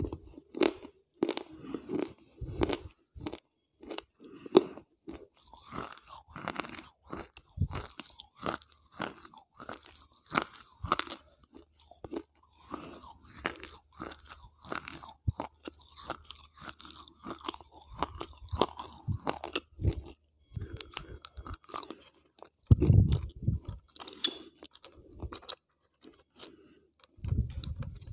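Close-miked chewing: brittle, crunchy grey pieces being bitten and crushed between the teeth right at a clip-on microphone, with irregular crunches throughout. There are a couple of dull, heavier thumps at about the middle and near the end.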